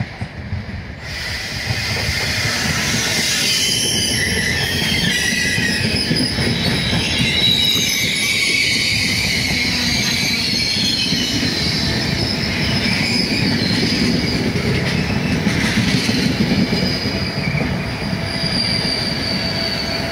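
Intercity train of passenger coaches passing close by, rising to a loud, steady rumble in the first couple of seconds, with wheels squealing in wavering high tones throughout as the train takes the diverging route off the slow line.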